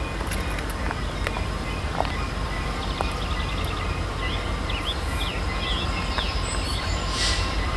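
Birds chirping several times over a steady low rumble.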